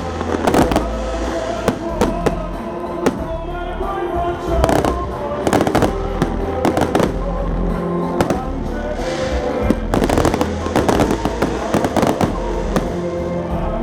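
Fireworks salute: many bangs and crackles in quick, irregular succession, with music playing under them.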